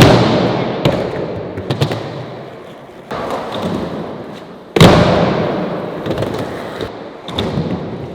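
A skateboard hitting the ground hard twice, once at the start and again about five seconds in, with smaller clacks in between. After each hit, rolling noise from the wheels fades away. These are the pops, landings and board slaps of kickflip attempts.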